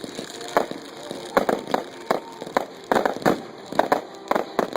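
Fireworks popping and crackling: a run of irregular sharp bangs, several a second.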